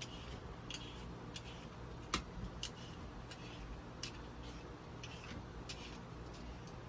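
A potato being peeled: faint, short scraping strokes of the blade on the skin, a little more than one a second and somewhat irregular, over a low steady hum.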